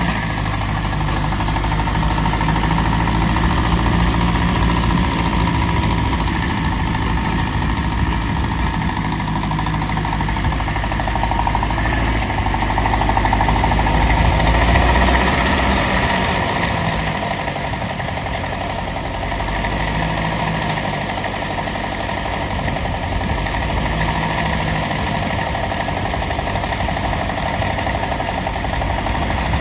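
Ferguson tractor engine running steadily, its low rumble easing off a little about halfway through.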